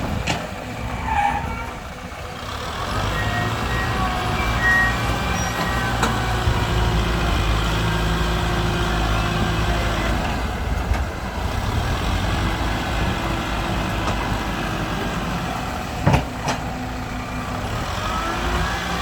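Tractor engine running steadily at a low, even pitch, with a few sharp clicks, the loudest about sixteen seconds in.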